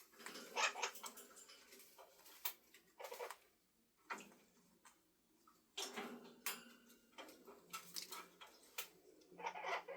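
A parrot's beak clicking and crunching as it eats: irregular sharp ticks and short scratchy crackles with quiet gaps between.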